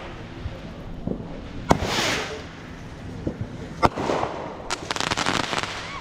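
Fireworks going off: three sharp bangs, each followed by a crackling hiss, then a quick run of crackles near the end.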